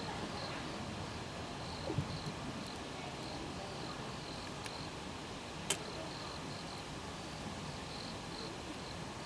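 Insect chirping steadily in short, high-pitched pulses, about two a second, with a single sharp click a little past halfway.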